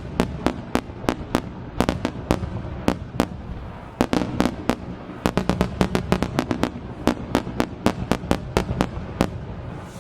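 Aerial fireworks going off in rapid volleys: many sharp bangs a second over a low rumbling echo. The bangs die away shortly before the end.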